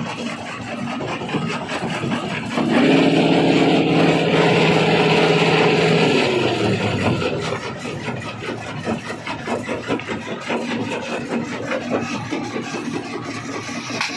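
Rock crusher breaking stone: continuous grinding and clattering of rock with many sharp knocks. A few seconds in, a steady engine drone joins for about four seconds, then drops away.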